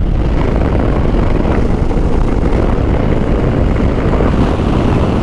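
Steady wind rush on the microphone over the low drone of a Harley-Davidson motorcycle cruising at highway speed.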